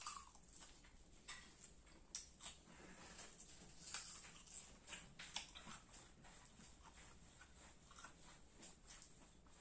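Faint crunching as a bite is taken from a firm peeled green Indian mango, then chewing with a string of crisp clicks, growing sparser in the last few seconds.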